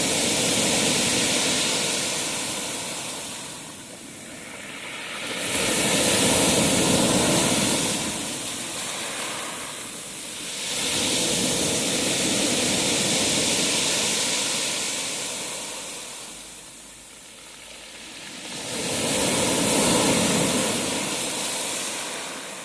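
Sea waves, each one swelling up and washing back. There are four swells about five to six seconds apart.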